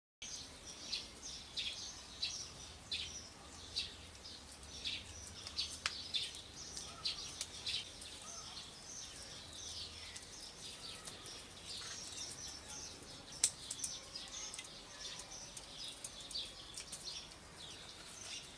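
Small birds chirping, a steady stream of short high calls, over faint outdoor background noise; one sharp click about thirteen seconds in.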